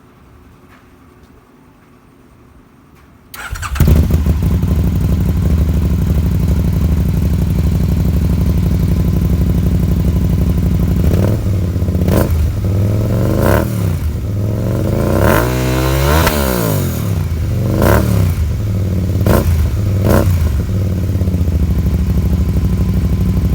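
2009 Can-Am Spyder's Rotax V-twin engine through an aftermarket HMF exhaust, starting up about three seconds in and idling steadily. In the second half it is blipped with about eight short throttle revs, one held a little longer near the middle.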